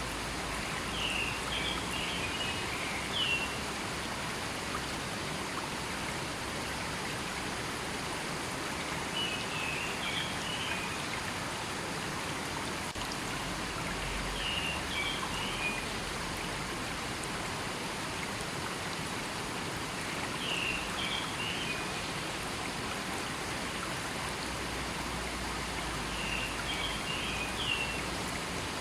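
A river flowing steadily, its water a constant rushing hiss. Over it, a bird sings a short chirping phrase five times, about every five to six seconds.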